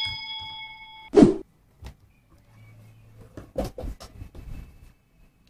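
A bell-chime sound effect from a subscribe-button animation rings and fades away over about a second, followed by a single short thump with a falling pitch. Faint scattered clicks follow.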